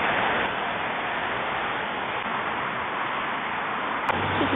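Steady rushing outdoor noise with no distinct events; a sharp click comes about four seconds in, after which a low hum joins.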